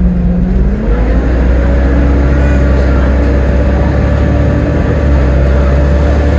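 Volvo B7TL double-decker bus's six-cylinder diesel engine running under a heavy low drone as the bus moves. About a second in, its pitch rises as it picks up revs, and it then holds steady.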